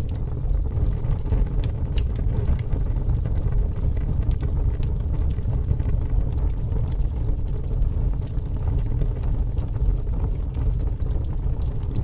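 Fire burning with a steady low roar, dotted with small scattered crackles and pops.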